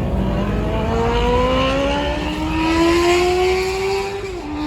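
A car engine accelerating, its pitch climbing steadily, then dropping suddenly near the end at a gear change before it starts climbing again.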